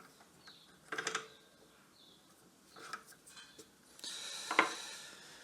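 A few faint knocks and clinks of small workshop parts being handled, then a soft hiss with one sharp click near the end.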